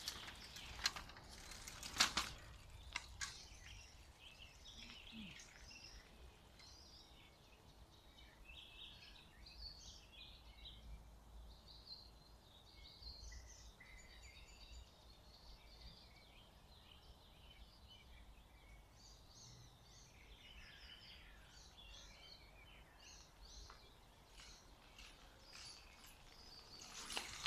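Faint birdsong from several small birds, many short chirps and trills overlapping, over a low steady rumble. A few sharp clicks come in the first three seconds.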